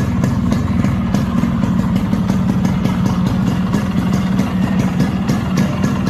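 Motorcycle engine running steadily at low revs, with an even ticking pulse over a steady low drone.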